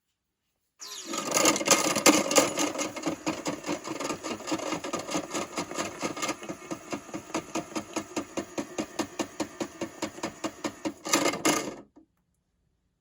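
Battery-powered toy washing machine running its spin cycle with toy figures in the drum: a fast, even rattling and knocking, about five beats a second. It starts about a second in and cuts off near the end.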